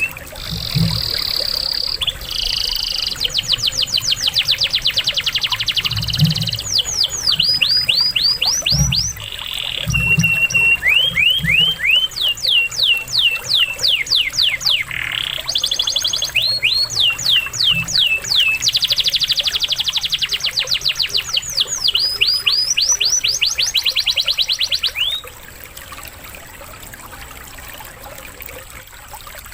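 Canary singing a long, loud song of rapid trills and quick rising chirps, with lovebird-style phrases mixed in, over a steady trickle of running water. The song stops about 25 seconds in, leaving only the water.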